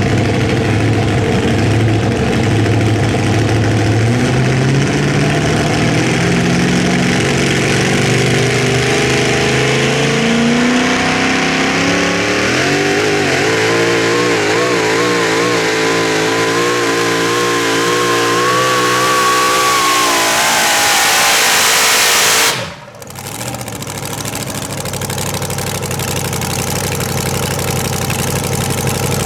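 Super modified 4WD pulling truck's engine at full throttle on a pull. Its revs climb steadily, then the pitch wobbles up and down as it keeps climbing. About 23 seconds in the sound cuts off abruptly, and the engine is then heard running steadily at lower revs.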